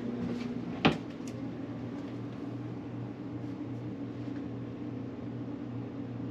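A single sharp knock, like a cupboard or door banging shut, about a second in, over a steady low mechanical hum that pulses gently.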